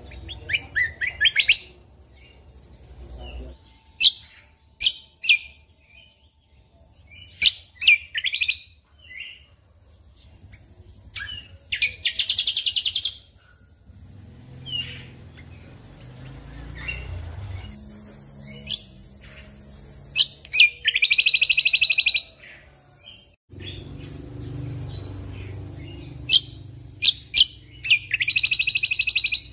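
Cucak kombo (kecial kombok) singing in full 'gacor' form: sharp clicking 'shot' notes and repeated buzzy trilled phrases of about a second each, again and again, over a faint low hum.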